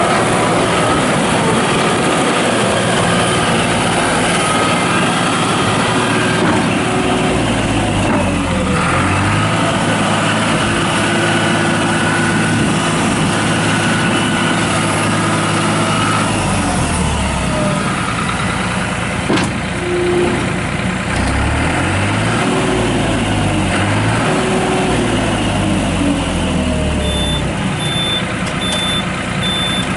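New Holland LS180 skid steer loader's diesel engine running as the machine works, its engine speed rising and falling several times. Its backup alarm beeps repeatedly near the end.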